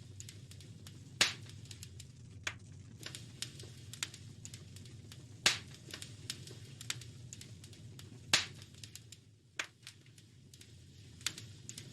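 Wood fire crackling in a fireplace: irregular small snaps with a few loud pops, over a steady low rumble of the flames.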